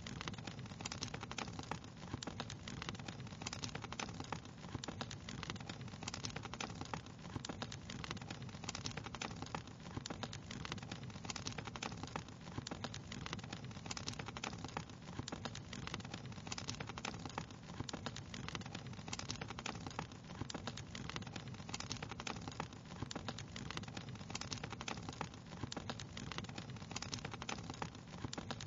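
Wood fire crackling steadily, with many small irregular pops and snaps over a soft hiss.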